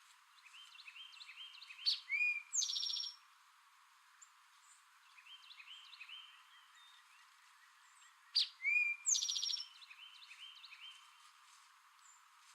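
Male eastern towhee singing its 'drink-your-tea' song twice, about six seconds apart: each phrase is a sharp introductory note followed by a fast buzzy trill. Fainter bird chirps are heard between the songs.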